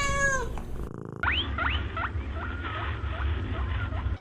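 Animal calls: a long pitched call that drops in pitch at its end about half a second in. After a short break comes a run of quick upward-sweeping chirps, about three a second, over a steady low rumble.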